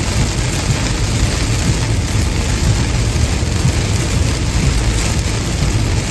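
Car driving at highway speed in the rain: steady tyre and road rumble on wet pavement with the hiss of rain and spray.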